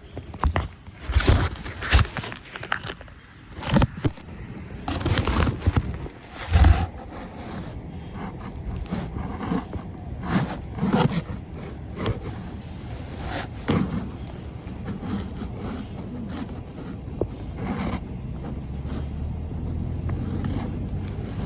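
Clothing rustling and a zipper being worked as an extra layer is put on against the cold, with irregular handling knocks close to the microphone. A steady low rumble builds near the end.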